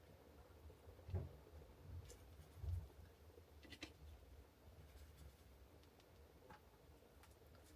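Near silence with faint strokes on paper as she paints, and two soft knocks about a second and nearly three seconds in.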